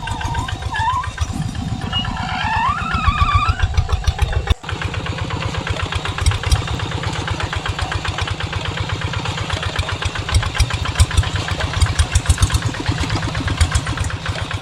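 Small single-cylinder engine running with a steady rapid thumping, as from a walking-tractor motor; the sound briefly cuts out a little after four seconds and then resumes.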